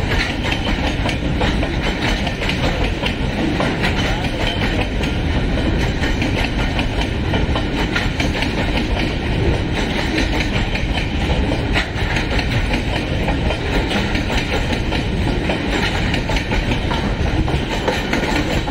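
Train running steadily over the track: a constant rumble of steel wheels on rail, with irregular clickety-clack clicks as the wheels cross rail joints.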